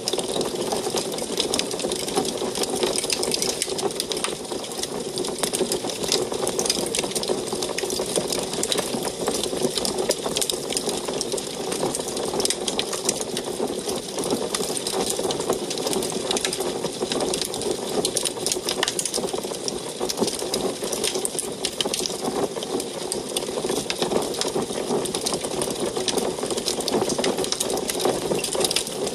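Wood fire burning in an antique wood stove: a dense, continuous crackle of many small pops and snaps over a steady hiss.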